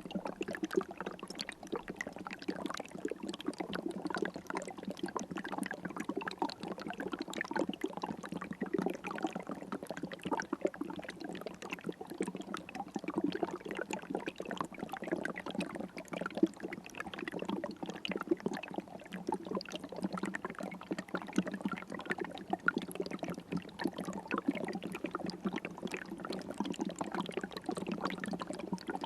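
River water trickling and babbling steadily, a dense, even patter of small splashes with no let-up.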